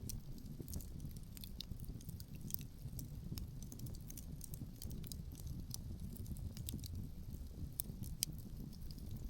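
Wood fire burning outdoors, crackling with frequent small sharp pops and snaps at irregular intervals over a steady low rumble.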